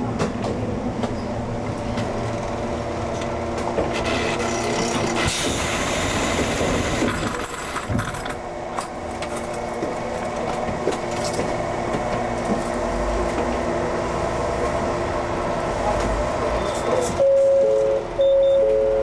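Ex-Tokyu 7000-series electric train with a steady hum and rail noise, a louder noisy stretch for a few seconds early on. Near the end a loud electronic buzzer tone sounds twice, the signal before the doors close.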